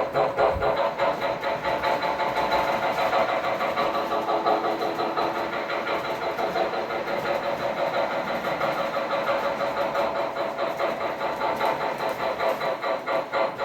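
Model train locomotive running on a layout, its sound making a steady, rapid pulsing rhythm of about three beats a second over a steady engine tone.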